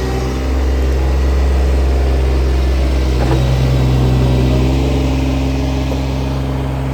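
Mini digger's small diesel engine running steadily, its pitch shifting slightly a few times as the engine and hydraulics are worked.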